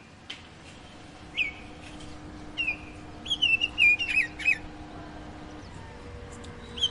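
A songbird giving short whistled notes that slide downward. Single notes come at first, then a quick run of them a little past three seconds in, and more near the end.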